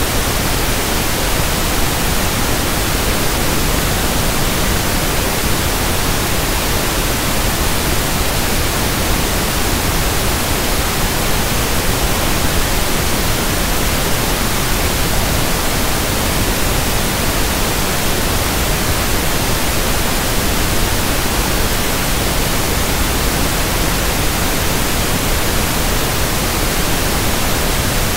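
Synthetic pink noise (1/f noise): a steady, unchanging hiss spread evenly across the whole range from deep rumble to high hiss.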